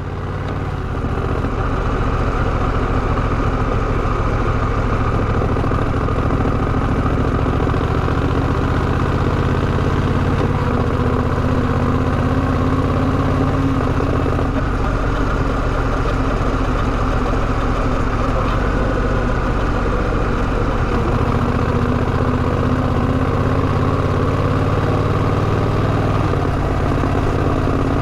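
Honda Rebel 1100's parallel-twin engine running at a steady pitch, heard from the motorcycle's own microphone, with a few small shifts in pitch. The sound fades in over the first second.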